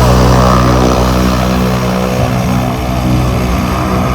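Bushcat light aircraft's piston engine and propeller running steadily as it taxis after landing, growing fainter after about two seconds.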